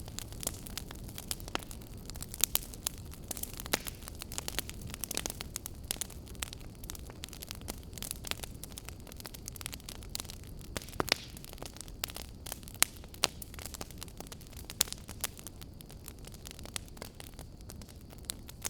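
A fire crackling: frequent irregular sharp pops and snaps, a few of them much louder, over a low steady rumble.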